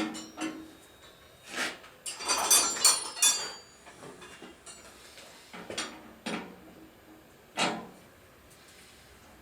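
Metal tools and engine parts being handled: a few knocks, a burst of clattering about two seconds in, then three more separate knocks.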